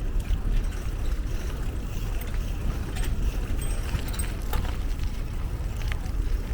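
Wind buffeting the microphone while riding a bicycle: a steady low rush, with a few faint clicks.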